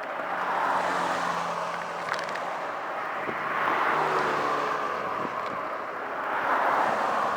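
Road and traffic noise heard while riding, with wind. It swells three times, like vehicles going past.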